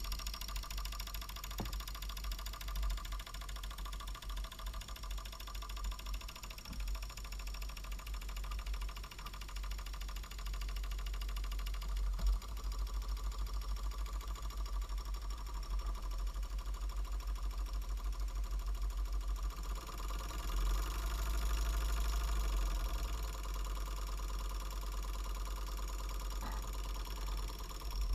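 Small 5.4 cc model steam engine running steadily with an even, rhythmic beat; it grows a little louder about twenty seconds in.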